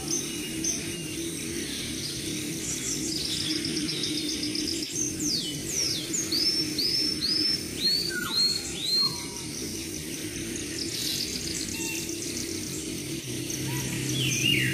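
Several wild birds chirping and calling: short falling chirps and quick trills, with a run of about six repeated arched whistled notes in the middle.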